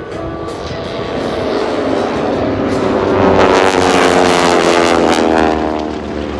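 Formation of T-6 Texan propeller aircraft with radial engines making a low flyby. The engine note builds to its loudest about four seconds in, then drops in pitch as the planes pass.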